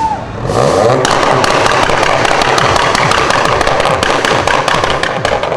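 A modified car's engine revving hard, its pitch climbing about half a second in, with a rapid run of sharp crackles and pops from the exhaust.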